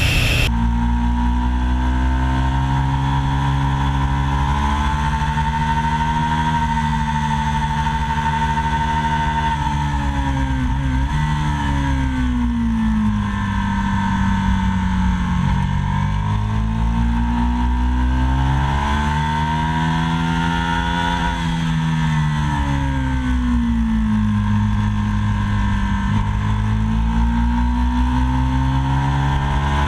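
2003 Aprilia RSV Mille's 998 cc V-twin engine running under way, its pitch slowly falling and rising several times as the revs change.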